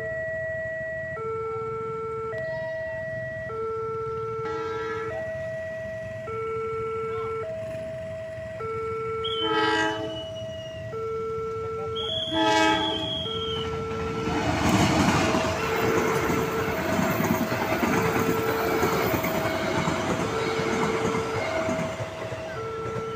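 Railway level-crossing warning signal chiming a repeating two-tone pattern, as a train sounds its horn twice, about ten and twelve seconds in. From about fourteen seconds the train passes with loud rumbling and clatter of wheels on rail, while the crossing chime keeps going.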